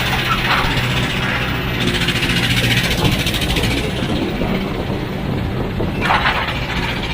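Heavy machine's engine running steadily under work, with a brief hiss about six seconds in.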